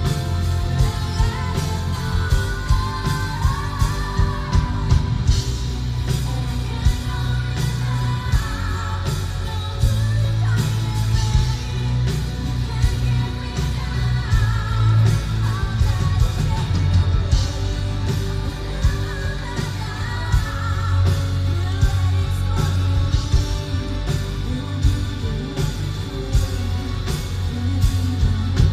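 Symphonic metal band playing live: distorted guitars, heavy bass and pounding drums under a woman's sung lead vocal.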